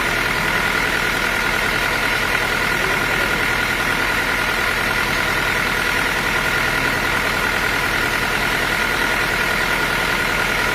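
Sawmill machinery running steadily: a constant mechanical drone with a steady high whine over it, unchanging throughout.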